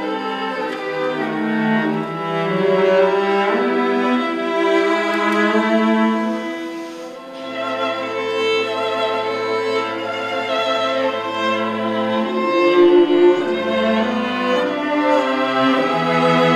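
Bowed string music, violin and cello, playing slow sustained notes over a low bass line.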